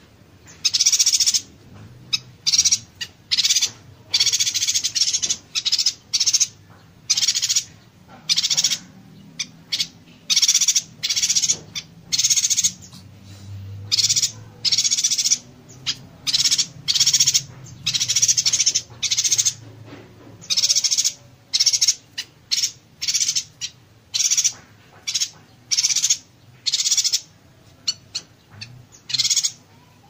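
Yuhina singing in the 'konslet, tembakan rapat' style: dense, buzzy bursts of high notes fired off in quick succession, about one burst a second with short gaps between.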